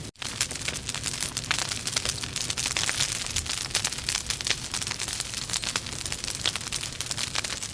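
Burning logs in a fireplace, crackling and popping steadily with many small sharp snaps over a soft hiss. The sound cuts out for a split second right at the start.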